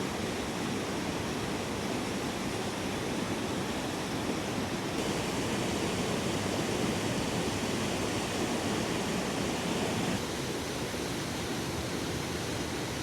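A 50-foot waterfall, Spearfish Falls, with a steady rush of falling water. Its tone shifts slightly about five and ten seconds in.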